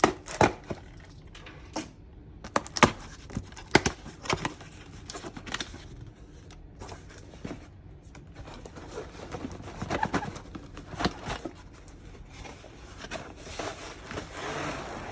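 Plastic packaging and small plastic parts being handled: a run of sharp clicks and taps in the first few seconds, then crinkling and rustling of plastic bags.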